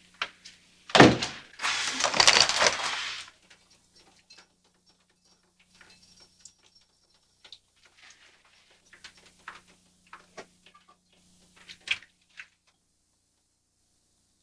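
A single loud thump about a second in, followed by about two seconds of loud rustling noise, then scattered light knocks and handling sounds.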